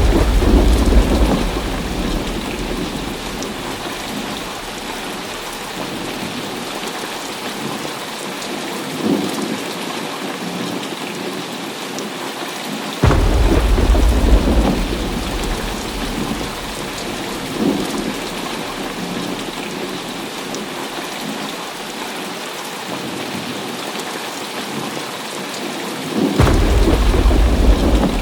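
Heavy rain falling steadily with thunder in a thunderstorm. A peal of thunder breaks out suddenly at the start, another about halfway through and a third near the end, each rumbling deep for two or three seconds before fading back into the rain.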